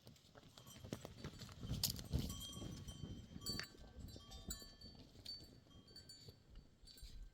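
Livestock bells clinking and ringing among a moving herd of sheep or goats, with scattered knocks and hoof clatter; the loudest knocks come about two seconds in.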